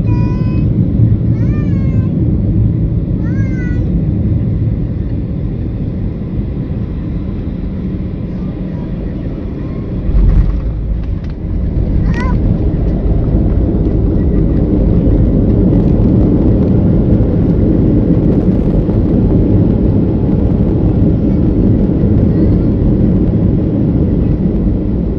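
Boeing 737-700 cabin noise on landing: a steady low rush of engines and airflow, a hard thump of touchdown about ten seconds in, then a louder rumble of the rollout. Short high rising-and-falling calls sound three times near the start and once just after the thump.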